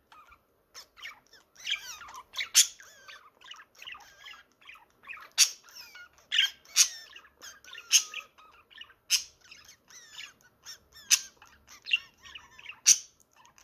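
Budgerigar chattering with a rapid, wavering warble, broken by about a dozen short, sharp, loud chirps.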